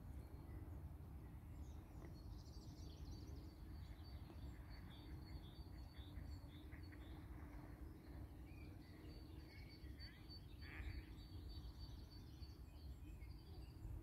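Faint bird chirps and calls: series of short high notes, repeated through most of the clip, over a low background rumble and a faint steady low hum.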